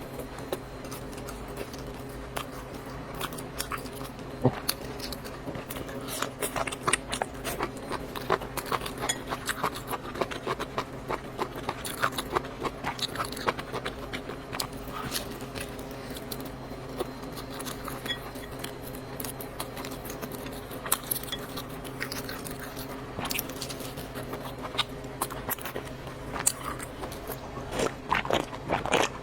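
Close-up eating sounds of noodles being chewed, with many short irregular wet clicks and smacks, over a steady low hum.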